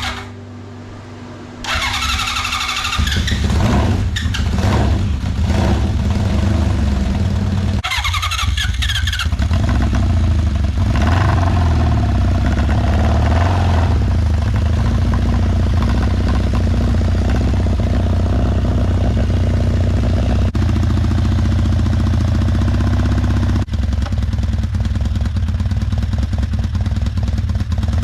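Honda CB750's inline-four engine starting a few seconds in, then running with several revs that rise and fall before it settles into a steady run.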